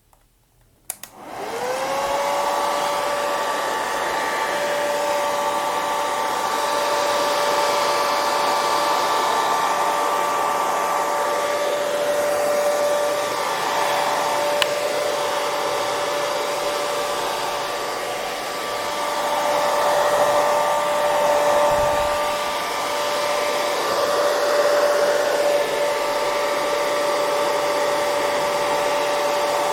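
Hair dryer switched on about a second in with a click. Its motor spins up with a quickly rising whine, then runs steadily with a whirring tone over a loud hiss of blown air.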